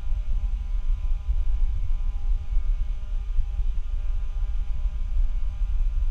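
Bad microphone sound: a steady low rumble with a faint electrical hum over it.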